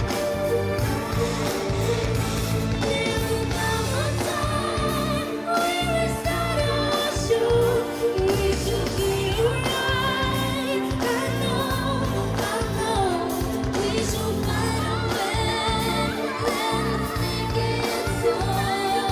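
A solo singer performing a pop song in English over a recorded backing track.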